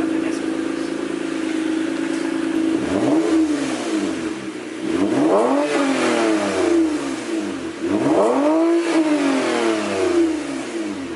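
Toyota Camry XSE's 3.5-litre V6 through a muffler-deleted axle-back exhaust, idling steadily, then revved up and let fall back three times before settling to idle. Much louder with the mufflers removed.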